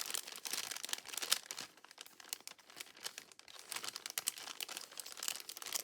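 Paper pieces being handled and shuffled: dense irregular rustling and crinkling.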